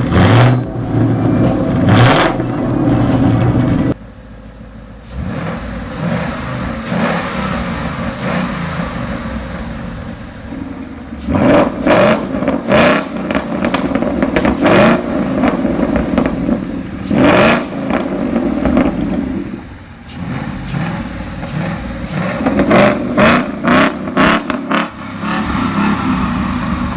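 A 2017 Ford Mustang GT's 5.0-litre V8 being driven hard through an ARMYTRIX valved cat-back exhaust with the valves open. It drops off suddenly about four seconds in, then surges loudly under throttle several times, with sharp crackles.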